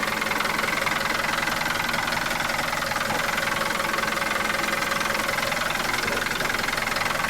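Hino Dutro's four-litre, 150 hp intercooled turbo diesel engine idling steadily.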